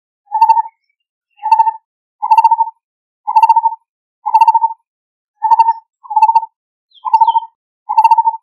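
Lineated barbet calling: a hollow note near 1 kHz repeated about once a second, nine times, each note a quick burred roll.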